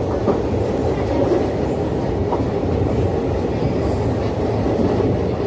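Train running along the track: a steady loud rumble and rattle of wheels on the rails.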